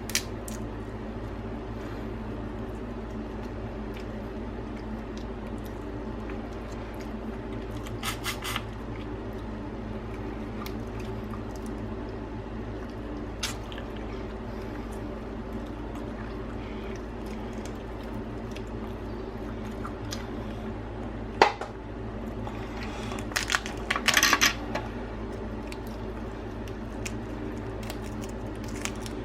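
Crab shells being cracked and picked apart by hand, with wet squishing from the juicy meat and scattered sharp cracks. The loudest crack comes about two-thirds of the way through, followed by a quick run of cracks, over a steady low background hum.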